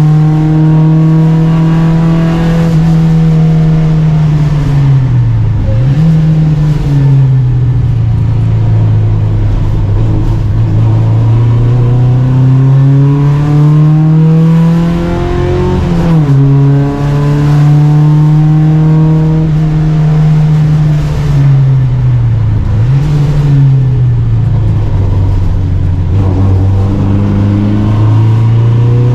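Volvo Amazon 121 race car's four-cylinder engine working hard at racing speed. It is held at high revs, drops with quick throttle blips on downshifts for corners about 5 s and 22 s in, then climbs steadily through the gear, with a quick upshift about 16 s in.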